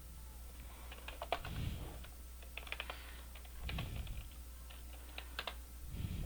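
Computer keyboard typing in four short bursts of clicks, with a few soft low thuds between them, over a steady low hum.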